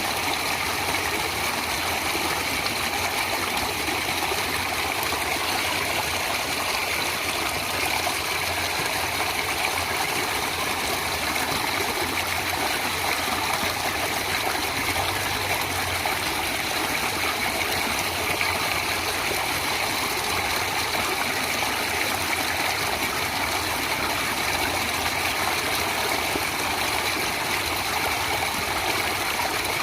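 Natural running water flowing steadily, a continuous even rush with no breaks or changes.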